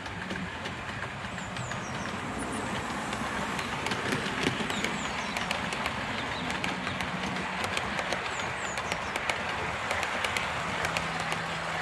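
OO gauge model of the BR Southern Region Booster electric locomotive running along the track hauling coaches: a steady motor hum with rapid, irregular clicking of the wheels on the rails. It gets a little louder over the first few seconds.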